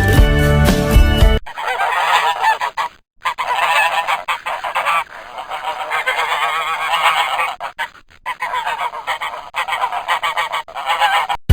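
Brief music, then a flock of geese honking continuously, many overlapping calls at once, with short breaks about three and eight seconds in.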